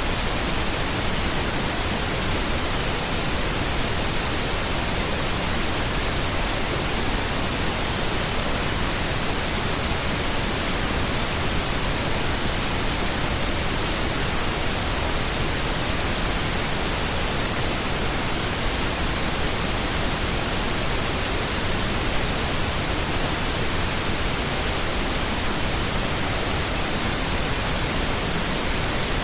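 Steady pink noise: an even, unbroken hiss spread across all pitches, fuller in the lows than white noise. Its level does not change.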